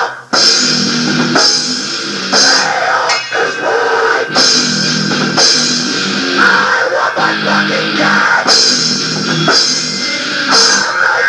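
Heavy rock band playing: distorted electric guitar over a drum kit, with cymbal crashes about once a second and a brief break just after the start.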